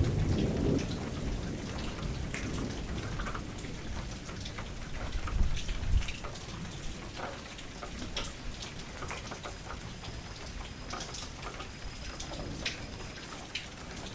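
Steady rain falling, with scattered drops tapping close by. A low rumble of thunder comes at the start and again about five to six seconds in.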